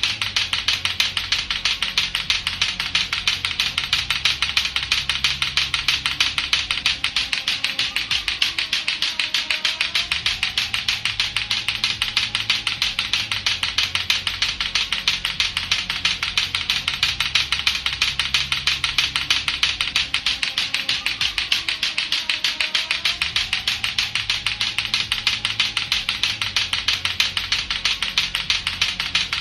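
Lato-lato clacker balls knocking together in a fast, unbroken clacking. Under the clicks a low looped backing and a faint tone dip in pitch twice.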